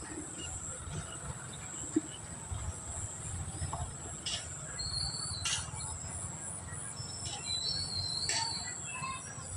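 Outdoor ambience: a steady low rumble with a high steady hiss, and a few short high bird chirps about five seconds in and again near eight seconds.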